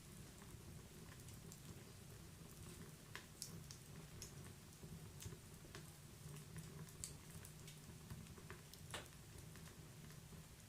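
Wood fire in a fireplace crackling, with sparse, irregular pops and snaps of burning logs over a soft, steady low rumble. One louder pop comes near the end.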